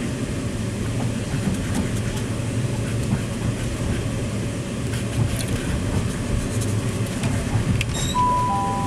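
Steady low rumble of a moving commuter train heard from inside the carriage. Near the end two steady electronic tones begin, one just after the other.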